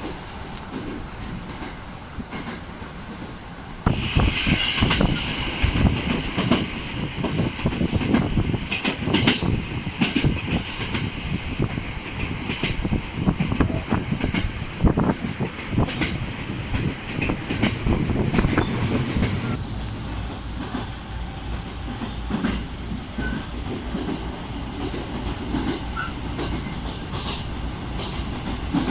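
Local passenger train running on the rails, a continuous rumble and rail noise that gets louder about four seconds in and turns to a steadier low hum near twenty seconds in.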